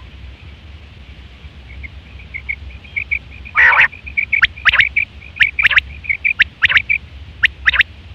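Quail calling: a run of soft, quick, high notes starts about two seconds in, then loud, sharp, high calls repeat irregularly, about twice a second, until near the end.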